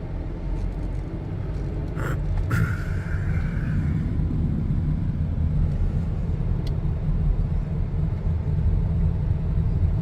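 Car driving slowly, a steady low rumble of engine and road noise, with two short clicks about two seconds in.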